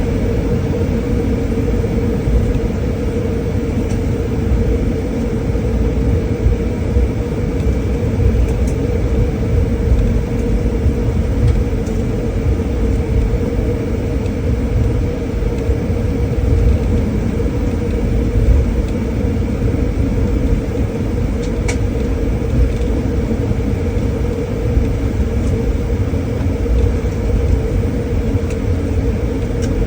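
Jet airliner cabin noise: a loud, steady rumble of engines and airflow with a constant tone, holding unchanged throughout.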